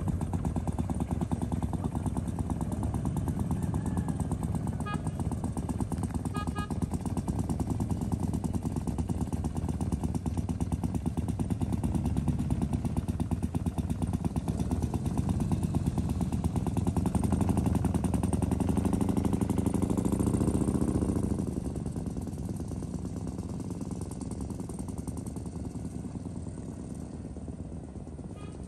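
Morgan 3 Wheeler's air-cooled V-twin engine running at low speed with a rapid, uneven beat as the car maneuvers. It grows louder and rises in pitch about two-thirds of the way through, then fades as the car moves away.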